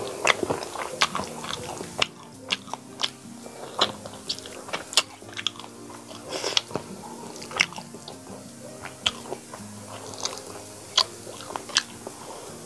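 Close-miked chewing of chicken curry and rice: wet mouth clicks and smacks at irregular intervals, about one a second, over soft background music.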